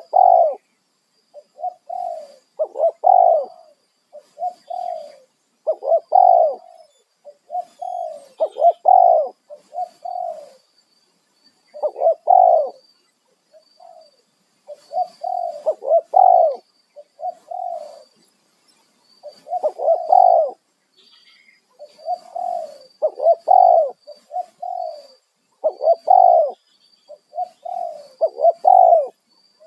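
Spotted dove cooing over and over, in phrases of several low coos with short pauses between them.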